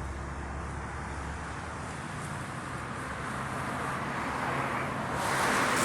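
Road traffic noise, a steady hiss of passing cars, with a car growing louder near the end.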